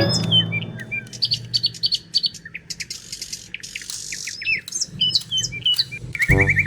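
Birds chirping: many short, high chirps and whistles in quick succession.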